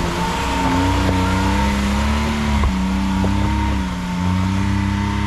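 Side-by-side UTV engine running at a steady speed, its pitch holding nearly level throughout.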